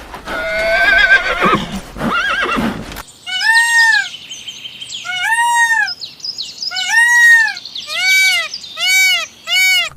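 A series of animal calls. First a warbling call, then a cut to a new recording of about eight short calls, each rising and falling in pitch, coming faster toward the end.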